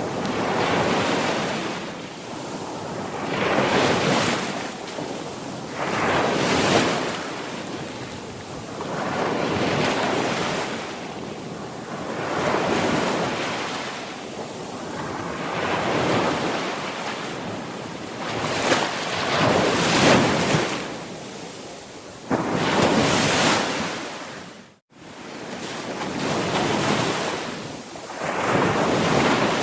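Sea waves breaking and washing in, each surge swelling and fading every two to four seconds. There is a brief dropout to silence about three-quarters of the way through.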